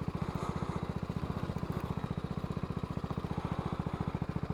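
BMW G310GS's single-cylinder engine running steadily at low revs, an even, fast pulsing of its firing strokes.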